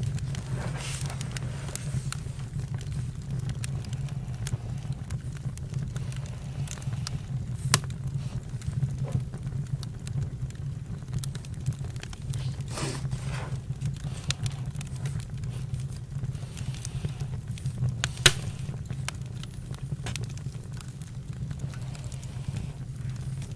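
Campfire crackling, with scattered sharp pops over a steady low rumble; two louder pops, one about eight seconds in and one near eighteen seconds.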